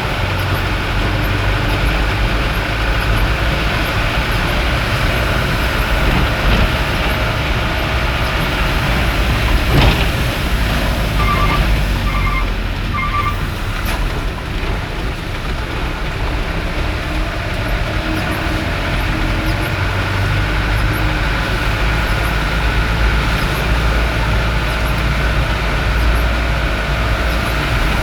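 A vehicle driving in heavy rain: a steady low rumble of engine and road under a dense hiss of rain. A sharp knock comes about ten seconds in, followed by three short, evenly spaced electronic beeps.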